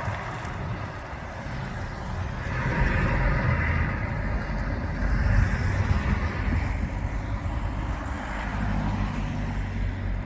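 Heavy diesel truck engine running as a lorry drives past, with a steady low hum that swells and eases over a few seconds.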